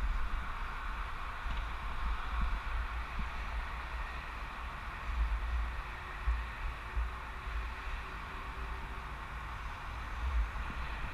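Wind buffeting the microphone of a camera on a moving bicycle, a low gusty rumble, over a steady hiss of tyres and air.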